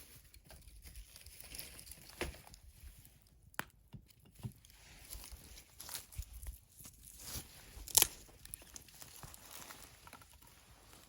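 Wood fire crackling, with scattered sharp pops over a low hiss, the loudest about eight seconds in.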